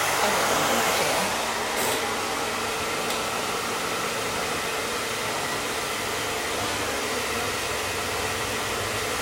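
Handheld hair dryer running steadily, a constant rush of air with a faint motor hum, blowing on a wig's lace to dry freshly sprayed lace tint.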